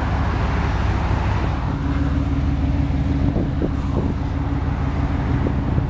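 A 1991 Chevrolet Silverado's 5.7-litre V8 idling with a steady low rumble; a steady hum joins in about two seconds in.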